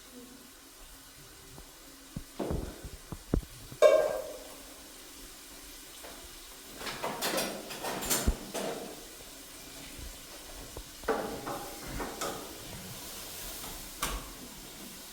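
Intermittent knocks and clatters of household objects, the loudest a sharp bang about four seconds in.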